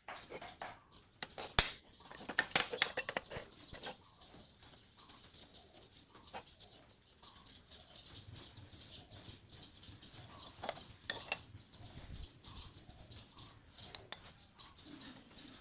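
Scattered sharp clicks and light clatter, a dense cluster in the first few seconds and a few single knocks later.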